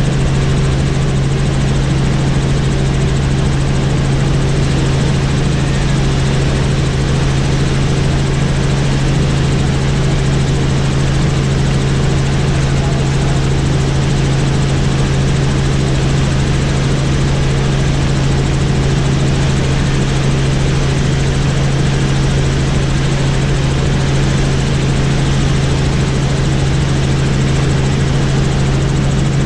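Helicopter in steady flight: a constant drone of engine and rotors with a strong, unchanging low hum.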